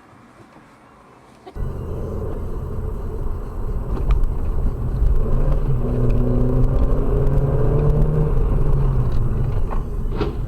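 Car engine and road rumble while driving, starting suddenly about a second and a half in, with the engine pitch climbing a little in the middle.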